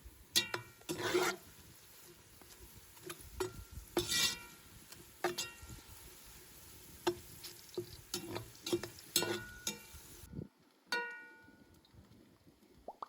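A metal spoon stirring in a metal cooking pot: irregular clinks against the pot, each ringing briefly, with a couple of longer scrapes. A faint hiss of frying runs underneath and cuts off suddenly near the end.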